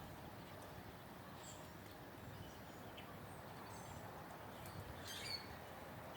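Faint, scattered birdsong: a few short, high chirps, a small cluster of them about five seconds in, over a steady outdoor hush.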